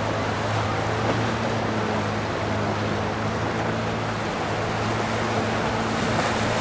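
A motorboat engine runs with a steady low hum, over the wash of water and some wind noise.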